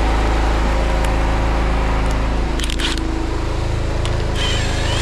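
An engine running steadily at a constant speed, with a short scrape about halfway through and a brief squeak near the end.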